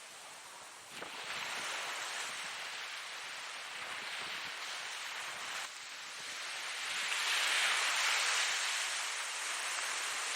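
Ocean surf washing in and out. A quiet lull at first, then the wash rises abruptly about a second in, and a larger wave swells up in the second half.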